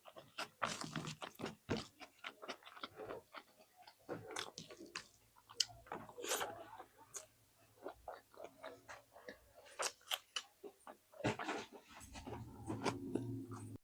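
Close-up mouth sounds of a person eating spicy egg with rice: irregular wet chewing, lip smacks and small clicks, with a low hum coming in near the end.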